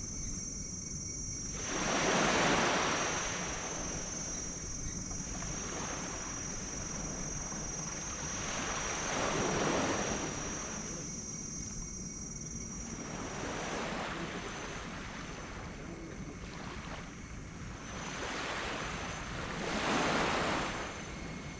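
Waves breaking on a sand beach: a wave surges in and washes back a few seconds in, another near the middle and a third near the end, with softer wash between them.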